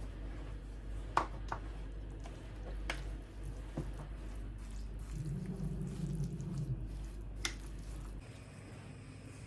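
Spoon stirring a wet cottage-cheese and semolina batter in a bowl, with soft squelching and a few sharp clicks of the spoon against the bowl, over a steady low hum.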